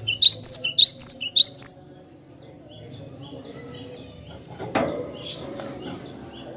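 Cinereous tit (glatik batu) singing. A fast run of loud, rising, whistled notes lasts for about the first two seconds, then quieter repeated notes follow. A single knock comes about five seconds in.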